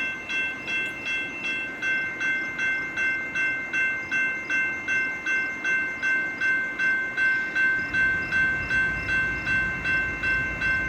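Railroad grade-crossing bell ringing steadily, about two strikes a second. A low rumble from an approaching freight train rises under it from about eight seconds in.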